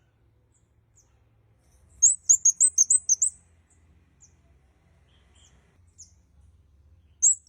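A kemade kepala merah (red-headed kemade) singing: a quick run of about nine high, clear chirps lasting just over a second, about two seconds in, and another run starting near the end, with faint single high notes between.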